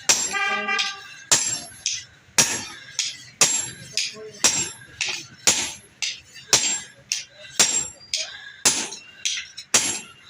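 Blacksmith's hammer striking metal on an anvil at a steady pace of about one blow a second, each blow ringing briefly, with lighter taps in between.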